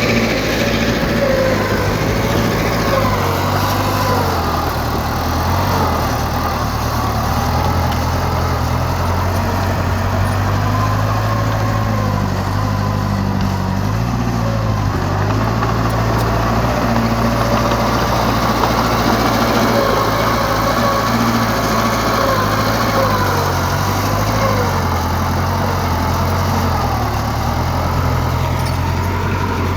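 Diesel engine of heavy earthmoving machinery running steadily, its pitch wavering up and down a little.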